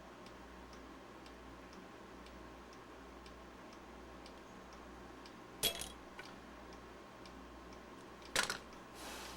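Faint steady ticking, about two ticks a second, with two sharp hard clicks about six and eight and a half seconds in, the second followed by a brief hiss, as small parts are handled on a workbench.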